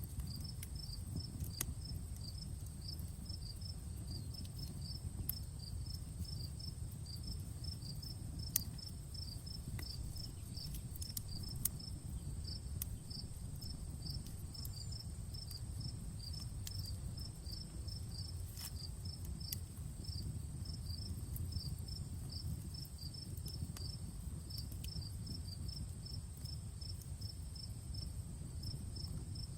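Crickets chirping in a fast, even rhythm over a steady high insect trill, with scattered sharp crackles and pops from a wood campfire and a low steady rumble underneath.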